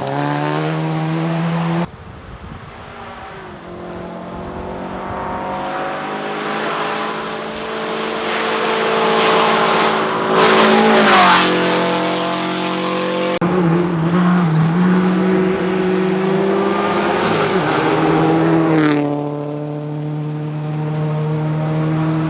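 Rally car engines, one clip after another with abrupt cuts. About ten seconds in, a car passes close, rising to its loudest and then falling away.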